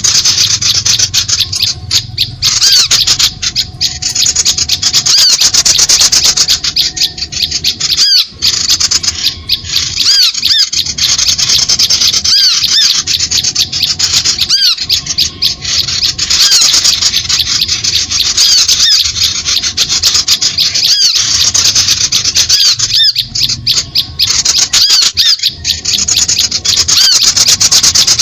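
Bird-lure recording of small birds calling: a dense, continuous stream of rapid high-pitched chirps, loud throughout. It is a lure call meant to draw birds in to lime sticks.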